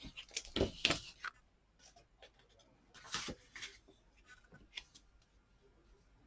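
Paper and cardstock being handled and pressed down onto a card on a craft desk: a few sharp taps in the first second, a brief paper rustle about three seconds in, then a light click or two.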